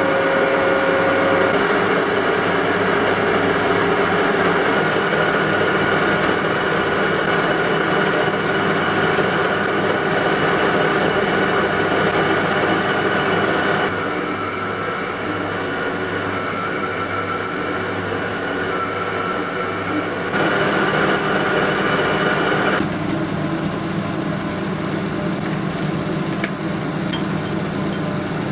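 Steady running of a workshop machine, a constant hum with several held tones. The tone changes abruptly three times, about halfway through, about two-thirds in and again shortly after.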